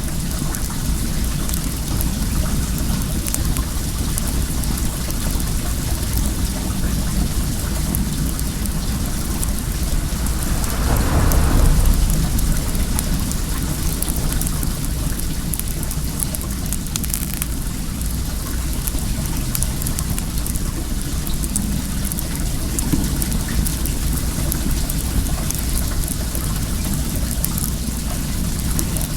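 Steady rush of flowing well water under the crackle of a wood bonfire, with a brief louder swell about eleven seconds in.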